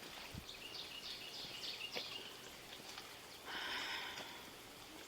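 A bird calling outdoors: a quick run of about five short, high chirps, then a single harsher, louder call about three and a half seconds in, over faint background hiss.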